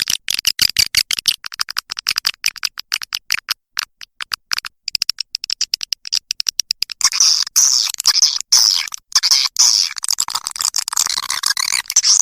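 Edible-nest swiftlet calls from a swiftlet lure recording: a rapid run of dry clicks, then from about seven seconds in a dense, continuous high-pitched twittering.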